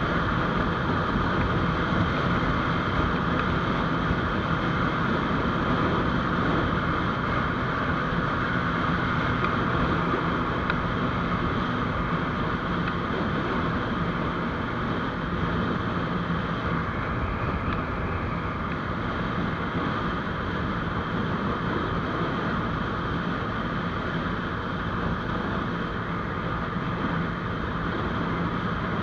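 GPX GR200R motorcycle riding at a steady speed: the engine running with wind rushing over the microphone.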